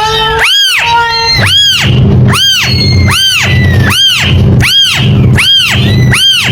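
Kitten meowing over and over: high-pitched mews that rise and fall in pitch, about eight in quick, even succession, over a steady low hum.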